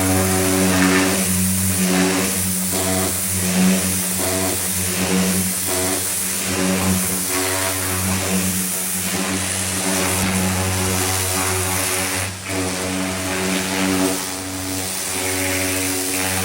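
Pressure washer running: a steady motor-and-pump hum under the hiss of the water jet spraying the car, the hiss swelling and dipping as the spray moves.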